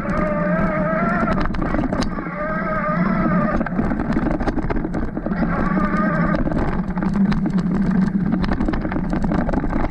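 Bafang M620 Ultra mid-drive e-bike motor whining under load, its pitch wavering up and down, over frequent clicks and knocks from the bike riding over rough ground.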